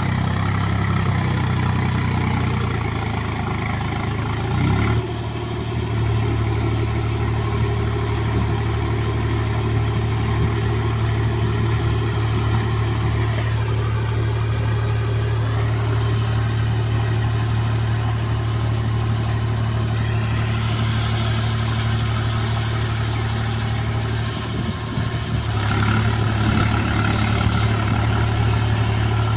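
Swaraj 735 FE tractor's three-cylinder diesel engine running steadily while pulling in low gear. Its note shifts about five seconds in, and the engine dips briefly and picks up again late on.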